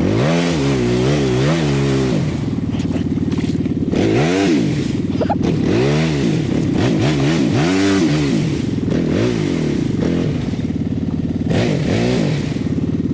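ATV engine running under way, repeatedly revving up and easing off as the throttle is worked, so its pitch rises and falls every second or two.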